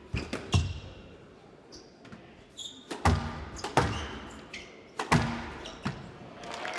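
Squash ball smacked by rackets and off the court walls during a rally, five sharp cracks spaced irregularly, with short squeaks of shoes on the court floor between them. Applause starts right at the end as the rally is won.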